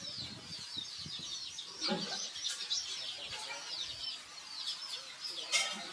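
Small birds chirping busily, many short quick notes overlapping, with a brief lower sound about two seconds in and a short scratchy noise near the end.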